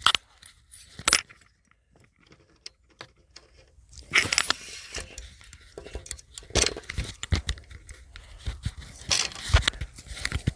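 Footsteps and camera handling noise: irregular knocks, rustles and crunching. The loudest come at the very start, about a second in, about four seconds in, and twice near the end.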